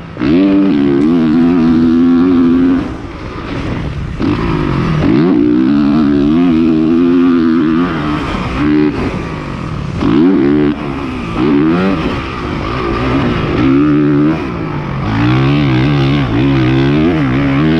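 Dirt bike engine revving on a motocross track. The pitch climbs and falls as the rider works the throttle through the gears, with brief drops in level and pitch several times before it picks up again.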